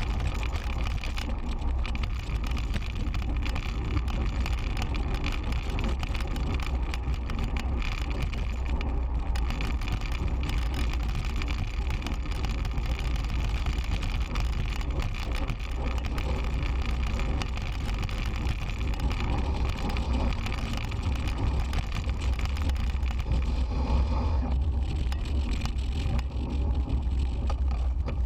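Steady rumble of wind buffeting and road noise from a moving road bicycle, picked up by a bike-mounted GoPro Hero 3's microphone.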